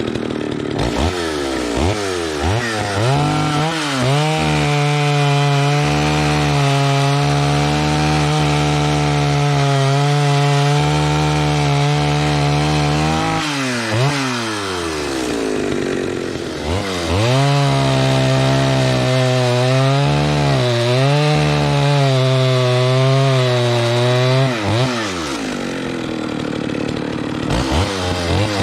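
Echo Kioritz 650EVL 65cc two-stroke chainsaw revving to full throttle and cutting wood. The engine drops back about 13 seconds in, revs up into a second cut a few seconds later, its pitch dipping under load, and drops back again near the end before revving once more.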